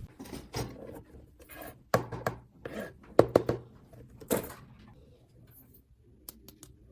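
Irregular clicks and knocks of small hard objects being handled and set down, loudest around two, three and four seconds in, then only faint ticks.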